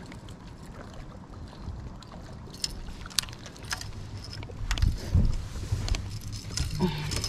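Clicks and knocks of handling gear aboard a small fishing boat, over a steady low rumble. A few heavy thumps on the hull about five seconds in are the loudest sounds.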